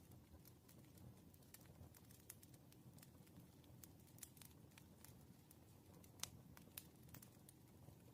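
Faint wood fire burning: a soft low rumble under irregular sharp crackles and pops, the loudest pop a little after six seconds in.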